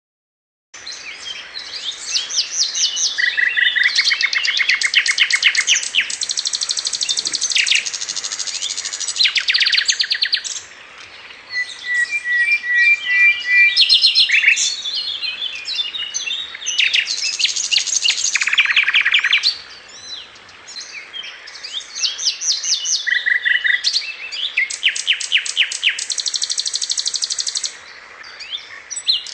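A songbird singing loudly in long runs of rapid, high chattering trills and repeated notes, broken by short pauses. It starts about a second in.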